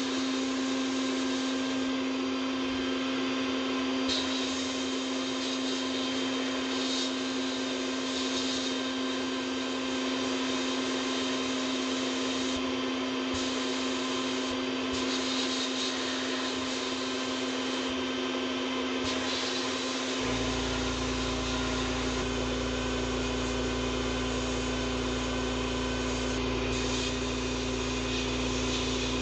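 Sandblasting cabinet running: a steady hiss of air and abrasive from the blast nozzle stripping rust from small steel parts, over a constant hum. A deeper low rumble joins about twenty seconds in.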